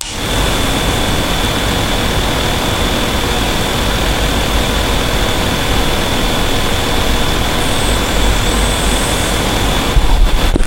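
Steady engine noise with a high, even whine on top.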